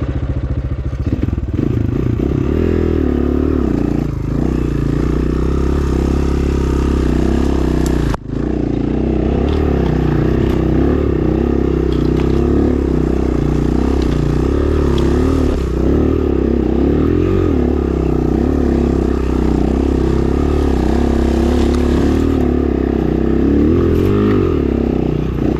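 Dirt bike engine running, its pitch rising and falling with the throttle, with a brief break about eight seconds in.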